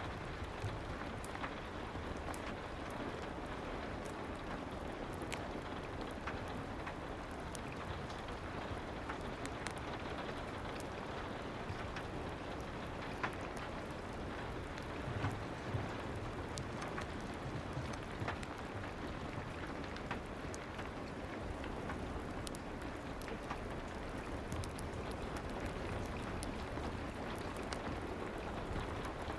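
Steady soft rain, a constant hiss with scattered faint crackles and ticks from a fireplace.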